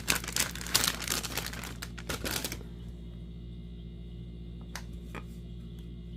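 Plastic packaging crinkling and rustling as it is handled for about two and a half seconds, then two light clicks a little under a second apart.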